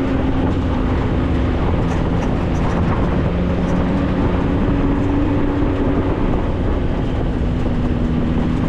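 Maverick 4x4 side-by-side's engine running steadily under way, a constant drone over a broad rush of wind and driving noise.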